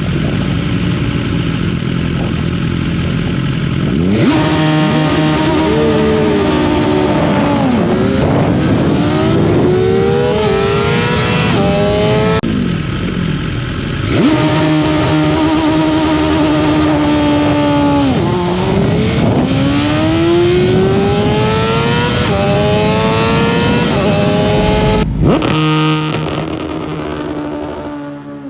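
BMW S1000RR's inline-four engine held at steady high revs for a launch, then revving up hard through the gears with a quick drop in pitch at each upshift. This happens over several separate launch runs.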